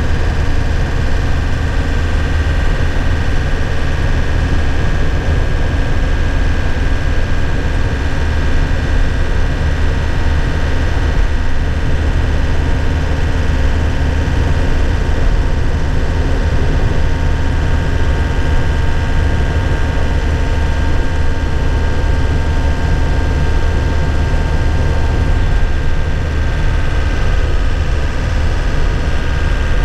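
Cab interior sound of a 2001 Nissan Cabstar truck on the move: a steady low engine drone with faint whining tones and road noise, holding an even pitch and level throughout.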